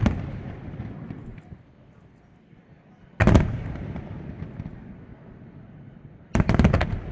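Aerial firework shells bursting close by: the rumbling tail of one burst fades at the start, a single loud bang comes about three seconds in, and a quick cluster of several bangs follows near the end, each trailing off in a rolling rumble.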